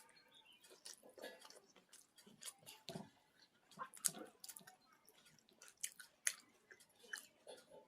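A person chewing and eating close to the microphone while eating pakhala (watered rice) with fried vegetables: irregular crisp mouth clicks and smacks, with a low thud about three seconds in.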